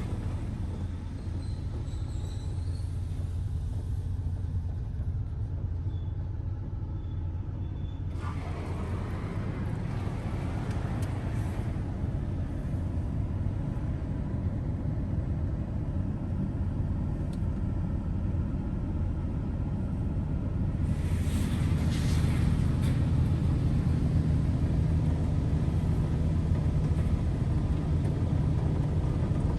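Washworld High Velocity touchless in-bay automatic car wash running: a steady low mechanical hum with the hiss of spray. The hiss comes in about a quarter of the way through, and the hum grows louder about two-thirds of the way through.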